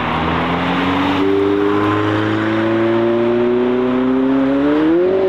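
McLaren 720S twin-turbo V8 accelerating away, its engine note climbing steadily in one gear and then rising faster near the end.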